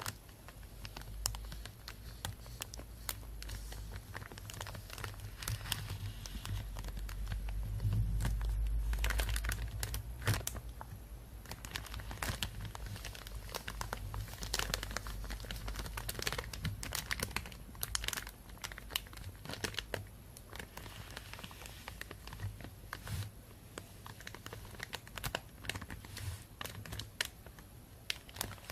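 Thin plastic bag crinkling and rustling close to a binaural microphone, a dense run of irregular crackles, louder for a few seconds about a third of the way in.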